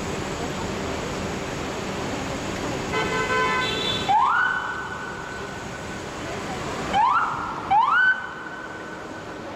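Fire truck responding: a short horn blast, then its electronic siren sweeps up quickly and holds its high note for about two seconds, followed by two short rising whoops, over steady street traffic noise.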